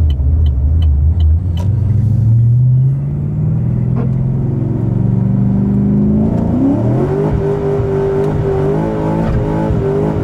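Car engine heard from inside the cabin while driving, the engine note climbing as the car accelerates for about three seconds, then easing off. It climbs again about six and a half seconds in and holds a higher steady pitch.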